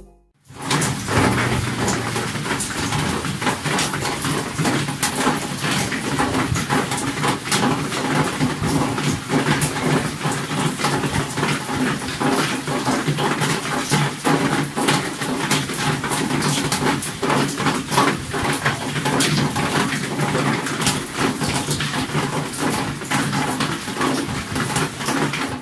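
Heavy rain falling: a dense, steady patter with many small sharp drop ticks.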